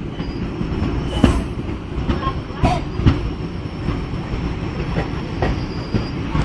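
Passenger train coach rolling into a station, heard at an open doorway: a steady rumble of wheels on rail with sharp clacks at uneven intervals, about one a second, as the wheels cross rail joints.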